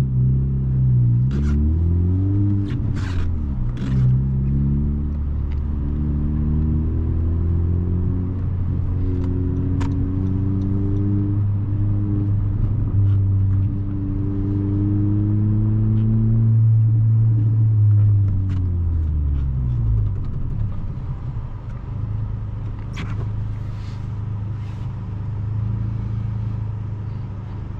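Honda Civic's 1.5-litre turbocharged four-cylinder engine pulling under acceleration, heard from inside the cabin. The revs dip and rise over the first few seconds, climb steadily for about thirteen seconds, then fall away near twenty seconds and settle to a steady low cruise.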